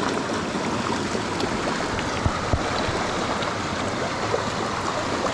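Steady rushing of a mountain stream's water, with two brief soft knocks a little over two seconds in.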